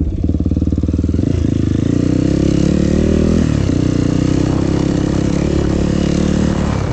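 Trail motorcycle engine running under load, its revs climbing for a second or so and then dropping at a gear change about three and a half seconds in, over a steady hiss.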